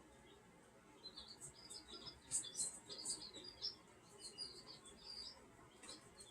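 Birds chirping faintly: a quick run of short, high chirps begins about a second in and keeps going, with a few sharper, higher notes in the middle.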